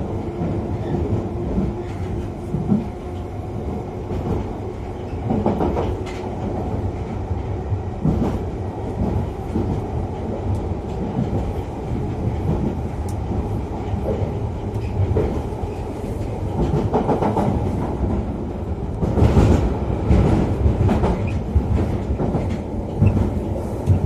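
London Underground Piccadilly line train running between stations, heard from inside the carriage: a steady rumble and rattle, louder for a couple of seconds about 19 seconds in.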